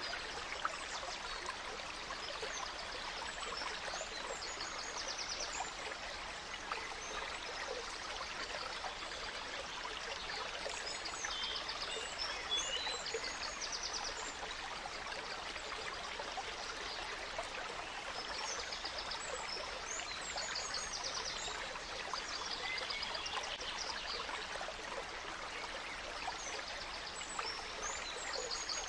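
Gentle stream babbling steadily, with forest songbirds singing short, high, trilled phrases every several seconds over the water.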